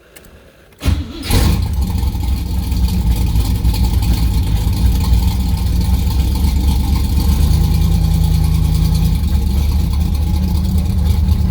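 Carbureted V8 of a C3 Corvette starting from cold: it catches about a second in after a brief crank and settles straight into a steady idle.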